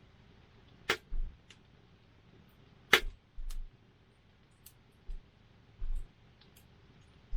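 Wood burning in a campfire, popping and crackling: two loud sharp pops about a second and three seconds in, and scattered fainter crackles over a faint hiss. Short low thumps come and go between them.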